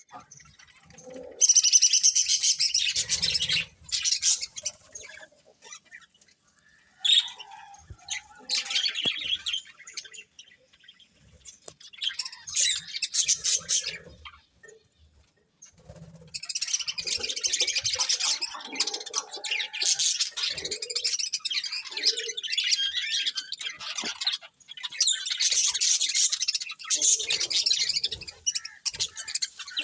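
Budgerigars chirping and chattering in spells of a few seconds, with short pauses between them; the longest spell runs about eight seconds from just past the middle.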